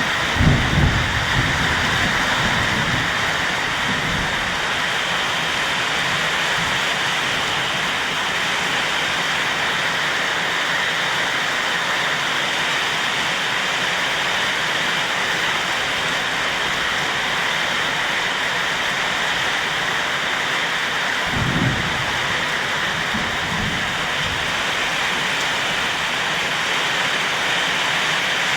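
Heavy rain pouring down in a steady loud hiss, with two short low rumbles, one about half a second in and another about 21 seconds in.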